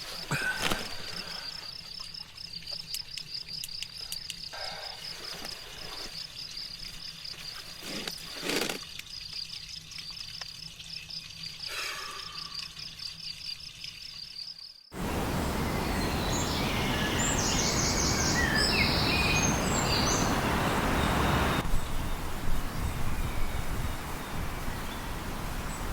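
Outdoor nature sounds: an insect chirps in a fast, even high-pitched pulse over a quiet background. About halfway through there is a sudden cut to a louder steady rushing noise with a few short bird chirps in it.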